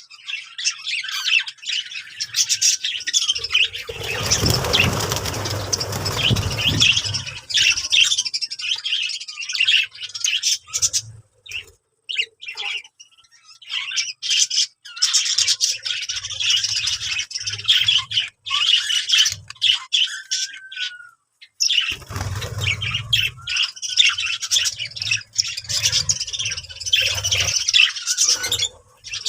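Small birds chirping busily, with many quick high chirps overlapping. A louder rushing burst comes a few seconds in and lasts about four seconds, and a shorter one comes near the end; the chirping briefly drops away between them.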